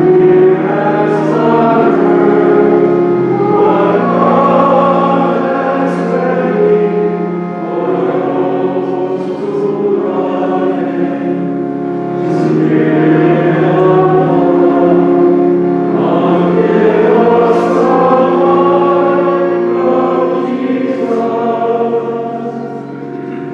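Choir singing a slow hymn in long held notes, the offertory hymn at the preparation of the gifts in a Catholic Mass.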